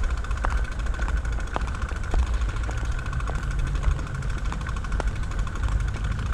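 Steady low rumble of wind and road noise while riding a bicycle, with a faint steady hum and scattered light clicks and rattles.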